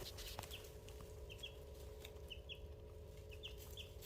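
Young chicks peeping softly: scattered short, high chirps, about a dozen, over a faint steady hum.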